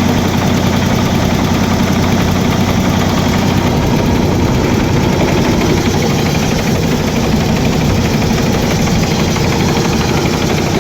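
1970 Ford tractor engine running steadily at a constant speed.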